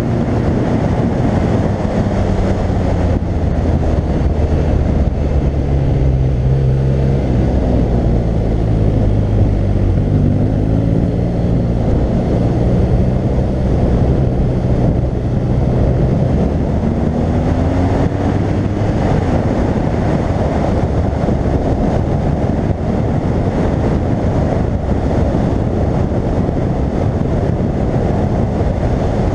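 BMW R1200GS flat-twin engine pulling on the road, its pitch rising and falling several times as the rider accelerates and shifts. Heavy wind rush on the helmet-mounted action camera runs under it.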